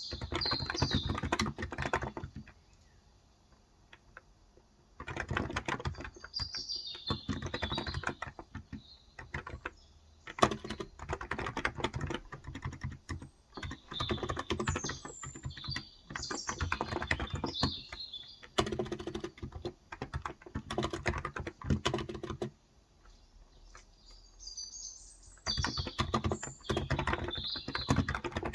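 Steady typing in bursts on a Cox Endeavor electro-capacitive tenkeyless keyboard with 35 g switches, broken by short pauses, the longest near the start and about three-quarters of the way through. Birds chirp faintly in the background several times.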